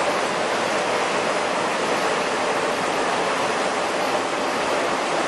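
Chili powder milling machinery running, a steady, even rushing noise with no changes.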